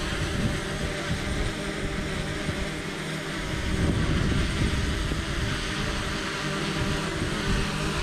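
DJI Mavic Mini quadcopter hovering, its propellers giving a steady buzz, under a gusting rumble of strong wind on the microphone that swells about halfway through.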